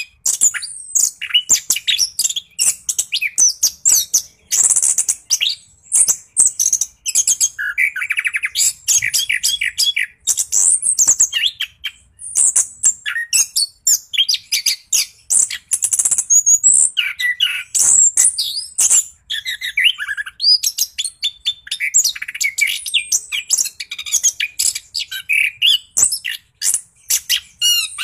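Orange-headed thrush singing almost without pause: a fast, varied run of high chirps, whistles and short trills, the continuous 'rolling' song prized in a bird in full voice.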